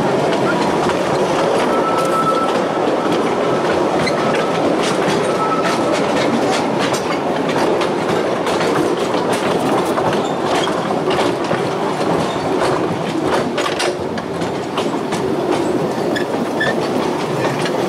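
Narrow-gauge railway carriage running along the track: a steady rumble with irregular clicks and clatter of the wheels over the rails, and a faint thin wheel squeal on and off a couple of seconds in.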